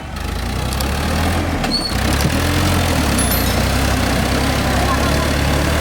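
Diesel engine of a Mahindra Arjun Novo 605 DI 4WD tractor running under load, pulling a trolley through mud. The engine note builds over the first two seconds, then holds steady.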